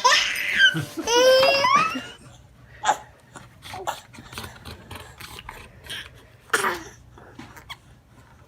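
A baby squealing and laughing in high, sliding bursts for about two seconds, then scattered small knocks and rustles, with one more short loud squeal about six and a half seconds in.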